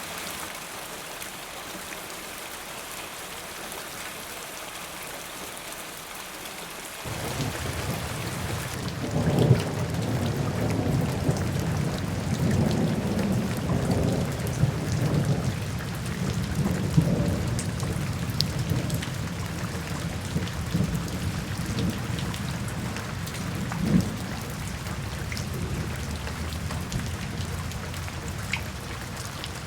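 Steady rain falling. About seven seconds in, a long roll of thunder comes in, loudest a couple of seconds later, and rumbles on more softly to the end.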